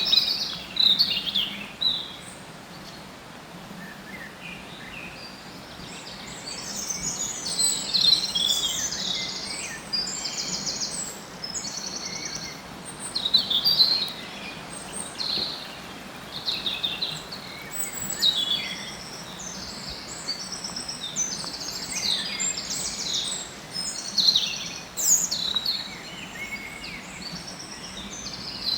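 Several songbirds singing and calling at once, with overlapping quick high chirps and trills, over a faint steady background noise. There is a quieter lull from about two to six seconds in.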